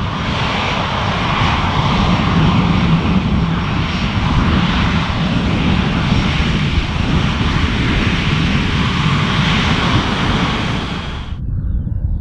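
Jet airliner's engines as it passes close on its landing approach: a loud, steady rush with a faint high whine, cutting off suddenly near the end. Wind buffets the microphone throughout.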